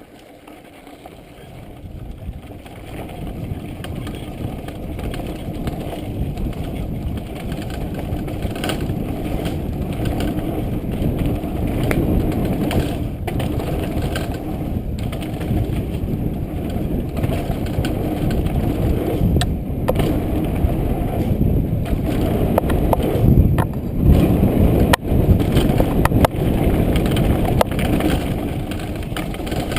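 Downhill mountain bike rolling fast over a rocky trail: a dense low rumble with frequent sharp knocks and rattles from the bike striking rocks. It starts quiet, builds over the first few seconds, and the knocks come thickest about two-thirds of the way through.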